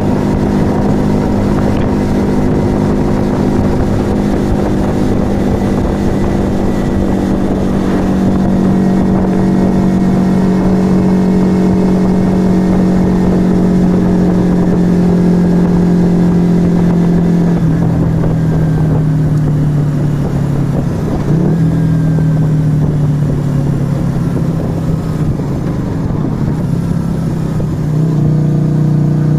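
Yamaha XV125 Virago's small V-twin engine running through a Turbo Kit aftermarket exhaust while riding. The engine note holds steady and sags slowly, drops in pitch about two-thirds of the way through, and picks up again near the end.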